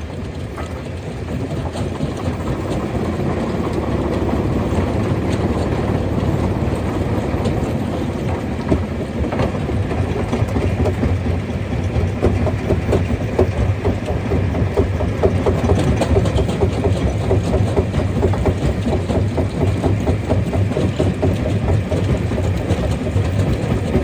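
Rock crusher running: a steady low machine drone under constant rattling and clattering of stone, growing louder over the first few seconds.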